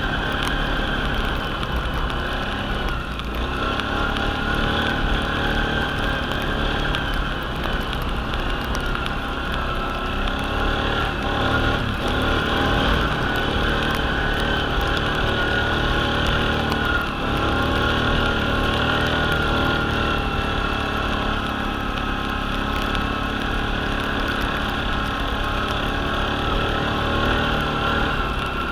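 ATV engine running steadily under way, its pitch wavering slightly with the throttle, with a brief dip about three seconds in and again around seventeen seconds.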